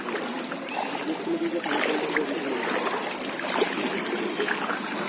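Floodwater sloshing and splashing steadily, with many small sharp splashes.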